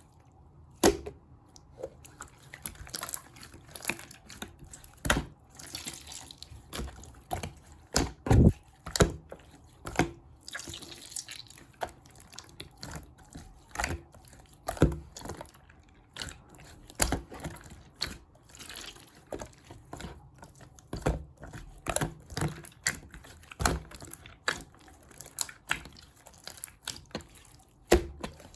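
Clear slime being squeezed and poked by hand: irregular wet pops and clicks, about one or two a second, with soft squelching between them.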